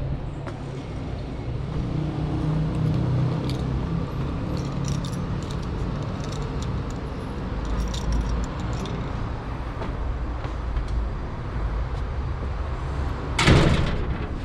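Street noise heard from a bicycle in city traffic: a steady low rumble with light metallic rattling and a vehicle's engine during the first half, then a short loud rush of noise about a second before the end.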